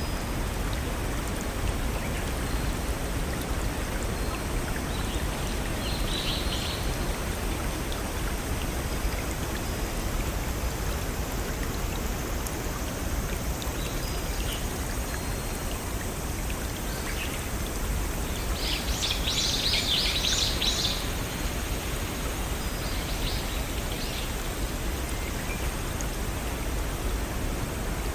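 Small forest waterfall and brook running steadily. Brief high-pitched chirps sound about six seconds in, with a longer cluster around twenty seconds in.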